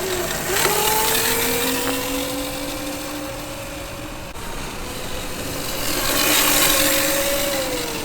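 Electric kids' dirt bike's motor whining as the bike rides off, a steady tone that rises slowly, then whines again later. Two louder rushes of noise come with it, one near the start and one about six seconds in.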